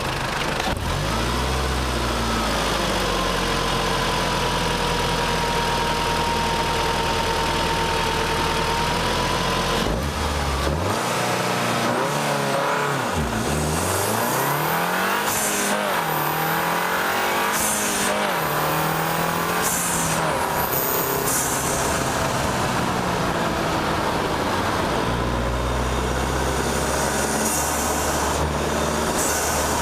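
Volkswagen Golf R's turbocharged 2.0-litre four-cylinder engine, heard from the bonnet under hard acceleration. The revs rise and then fall at each early gear change, and the turbo hisses when the throttle is lifted.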